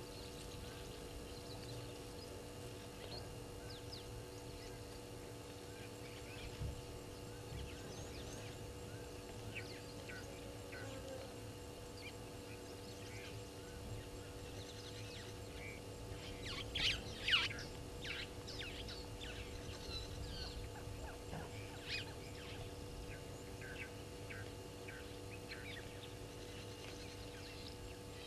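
Wild birds calling now and then over a steady faint hum, with a brief louder flurry of calls about seventeen seconds in.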